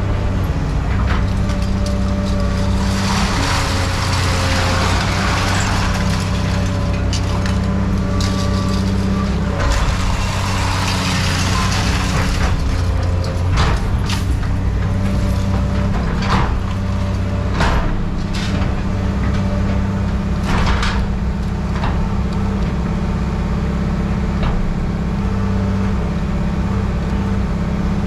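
A large truck-type engine runs steadily. Two long hisses come about three and ten seconds in, and a run of sharp knocks and clanks follows in the second half.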